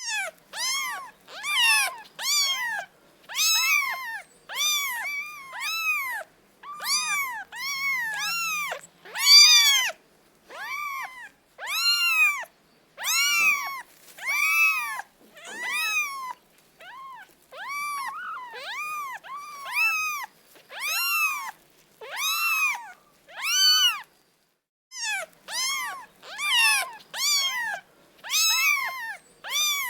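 A kitten meowing over and over in short, high-pitched calls, each rising then falling, about two a second, with one brief pause about three quarters of the way through.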